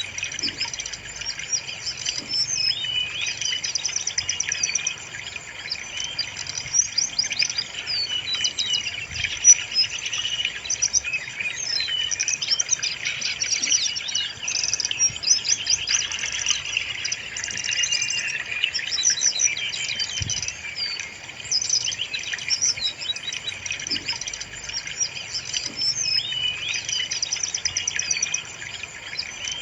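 Brown-chested jungle flycatcher song: a continuous, busy stream of rapid high chirps and short phrases, played as a lure to make kept birds sing.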